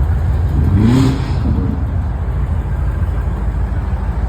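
A car engine running with a low steady rumble, blipped once about a second in so that its pitch briefly rises.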